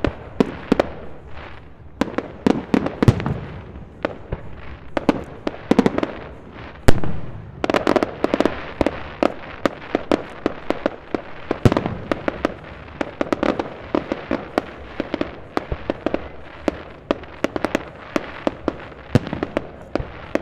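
Aerial firework shells bursting in quick succession: a dense run of sharp bangs and crackling, with the loudest bang about seven seconds in.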